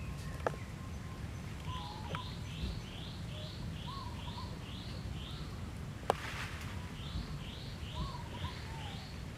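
Birds calling: a run of short, evenly repeated high chirps, about two a second, that stops and starts again, with a few lower warbled notes among them. A sharp click about half a second in and another about six seconds in, over a steady low rumble.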